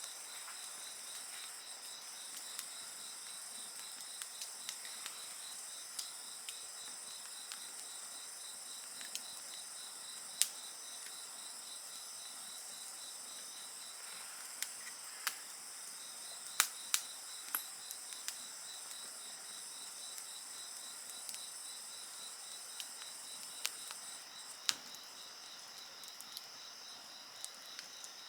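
Crickets and other night insects calling in a steady chorus of several high, shrill tones, one of them pulsing rapidly. A wood fire crackles over it with scattered sharp pops, a few louder ones about ten seconds in, around the middle, and near the end.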